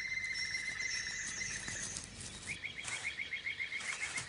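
Wild animal calls: a steady high trill, then about two and a half seconds in a rapid run of chirps, with thinner, higher chirps over the top.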